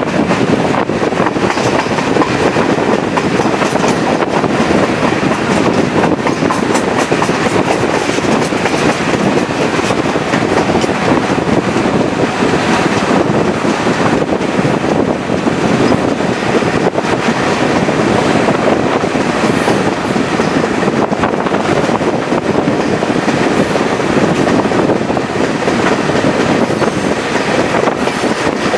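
Chepe diesel-hauled passenger train running along the track: steady, loud running noise of wheels on rails.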